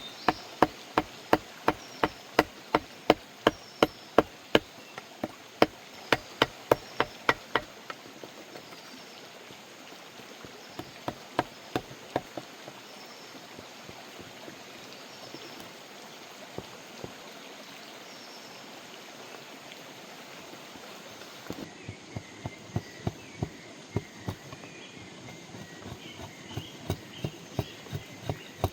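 Rapid, evenly spaced sharp knocks, about three a second, in two runs, at the start and again from about three quarters of the way through, with a few scattered knocks between, like repeated chopping or hammering strokes. A steady hiss like running water lies under them.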